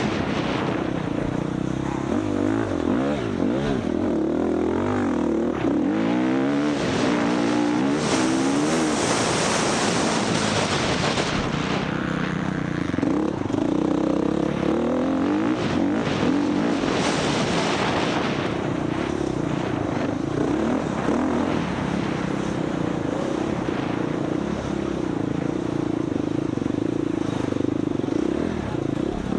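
Dirt bike engine at race pace off-road, revving up and down over and over as the throttle opens and closes, with bursts of hiss mixed in.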